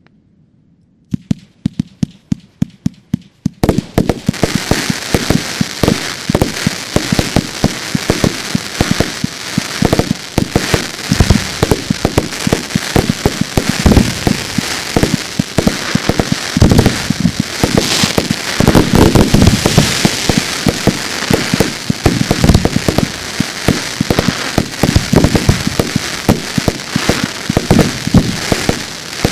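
Fireworks going off: a quick run of sharp bangs about a second in, then from about four seconds on a dense, continuous crackle packed with bangs, as batteries and shells fire together.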